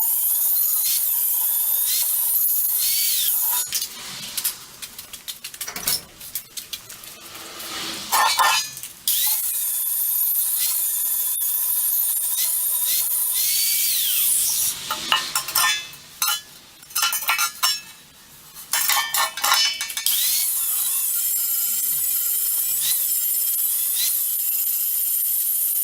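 Steel being worked by hand: a steady hissing tool noise that stops twice for stretches of sharp clinks and scraping of metal parts.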